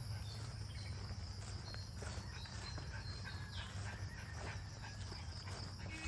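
Insects trilling steadily at a constant high pitch, over a low steady rumble, with a few short faint chirps.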